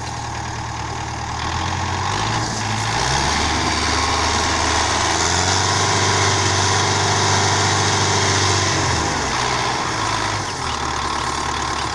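Belarus 510 tractor's diesel engine revving up, holding high revs for about six seconds, then dropping back toward idle near the end.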